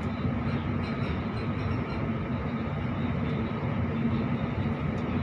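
Electric suburban passenger train running along the line, heard from inside the carriage: a steady rumble of wheels on the track with a constant low hum.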